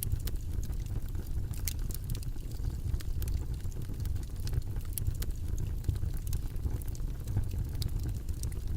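Steady, low, rumbling background noise track, with scattered light clicks at irregular moments.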